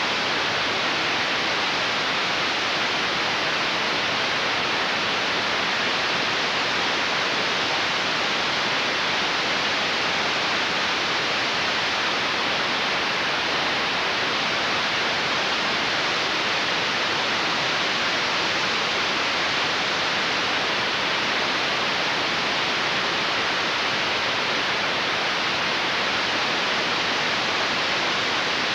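Steady, even hiss of static noise with no other sound; it stands in for a soundtrack that has no recorded audio.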